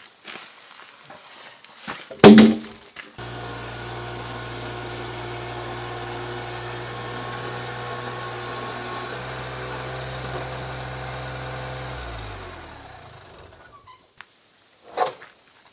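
A heavy thunk, then an engine runs steadily for about nine seconds before it is switched off, its pitch falling as it winds down. Another knock comes near the end.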